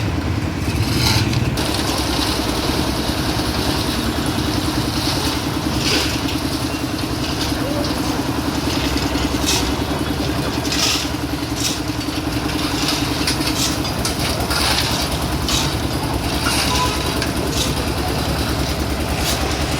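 Engine-driven construction machinery running steadily, with irregular knocks and clattering over the rumble. A steady hum in it stops about two-thirds of the way through.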